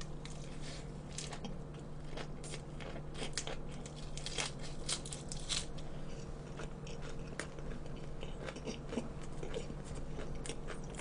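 Close-miked chewing of a lettuce wrap with cold pork trotters: a run of irregular crisp crunches and wet mouth clicks.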